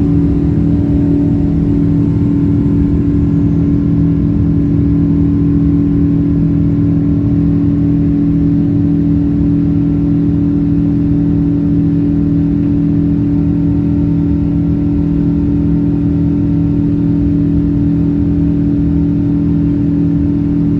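Boeing 777 jet engines running with a steady drone during the takeoff climb. Two constant humming tones sit over a broad rush of noise, with no change in loudness.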